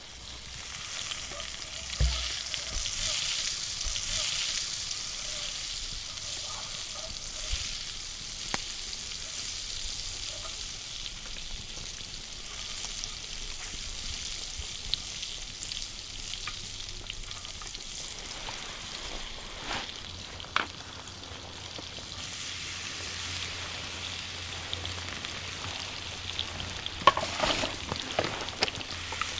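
Steak sauce sizzling in a hot pan, with a steady hiss that is strongest over the first few seconds. Scattered sharp clicks, with a cluster of them near the end.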